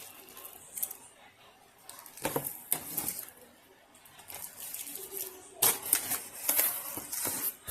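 Handling noises: a few scattered clicks and knocks, then from about five and a half seconds in a dense crinkling rustle.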